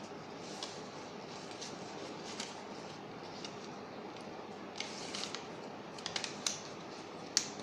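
A sheet of paper being handled and folded: scattered short, crisp crinkles and snaps, more of them in the second half and the loudest near the end, over a steady background hiss.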